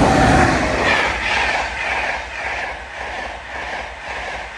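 LNER InterCity 225 express, a Class 91 electric locomotive hauling Mark 4 coaches, passing at speed. Its wheels click over the rail joints about twice a second above a steady rushing noise, which fades as the train draws away.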